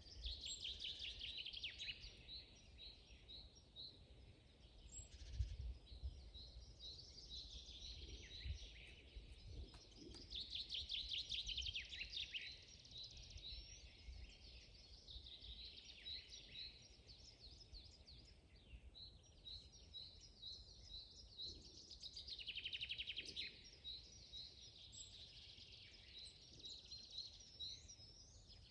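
Several songbirds singing: a continuing series of short repeated high notes, with louder trills coming every several seconds, over a faint low rumble.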